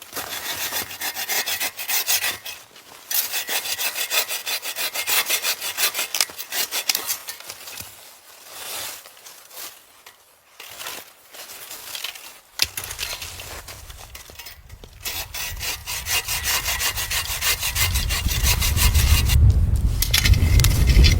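Hand saw cutting through wood with a steady rasping, stopping and starting, likely firewood being cut for a camp stove. A low rumble of wind on the microphone builds and grows loud near the end.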